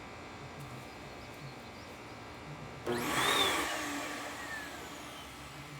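Bissell PowerForce Helix upright vacuum cleaner switched on about three seconds in and straight off again. Its motor starts with a rush of air, and its whine slides down as it spins down. The machine is running hot after sucking up rocks.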